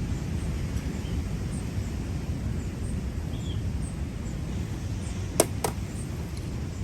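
Steady low rumbling outdoor noise of sea swell and wind, with faint short high chirps and two sharp clicks close together about five and a half seconds in.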